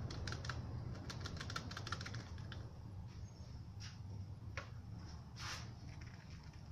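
Spray paint cans being handled, giving a quick irregular run of sharp clicks for about two and a half seconds, then a few single clicks and a short hiss a little before the end.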